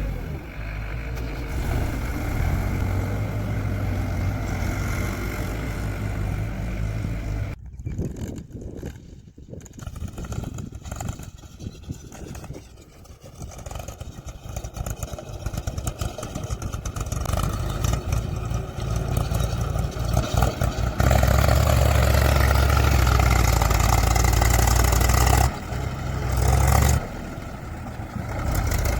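Vehicle engines running with changing load, including a choppy, crackling stretch of about 13 s from roughly a quarter of the way in. The running is louder and steadier near the end.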